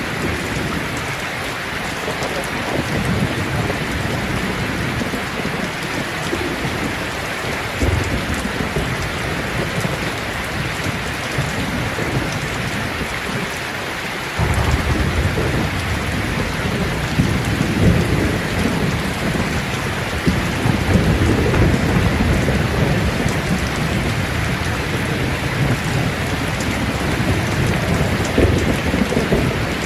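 Steady rain falling on leaves, an even hiss with a low, shifting rumble underneath. It gets abruptly louder about halfway through.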